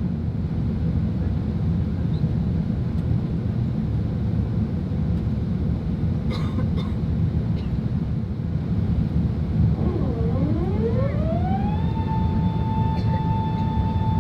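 Steady low rumble of an Airbus A380 aircraft. About ten seconds in, a whine rises in pitch over a couple of seconds and then holds steady.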